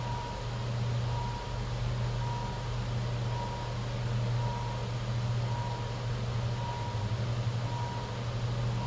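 Steady low machine hum, with a short high beep repeating about once a second.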